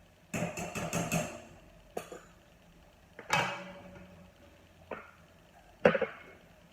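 A series of sharp knocks and clatters from hard objects: a quick cluster of about five, then single knocks spread apart, the loudest near the end.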